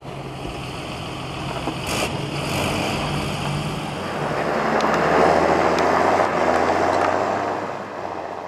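Farm machinery engine running, growing louder in the middle and fading away near the end.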